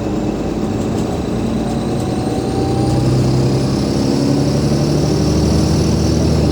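Alexander Dennis Enviro500 MMC bus's Cummins ISL8.9 diesel engine pulling harder, its note rising and growing louder from about three seconds in, with a thin high whine rising alongside it and easing near the end.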